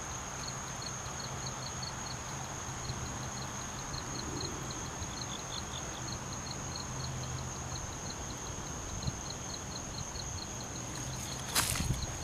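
Crickets chirping in a steady run of short, even pulses, over a constant high-pitched insect drone. A few footsteps crunch near the end.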